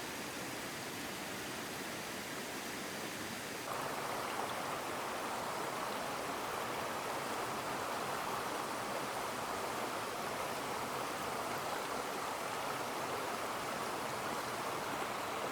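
Rushing water of a waterfall and stream, a steady hiss. It steps up suddenly about four seconds in and stays louder.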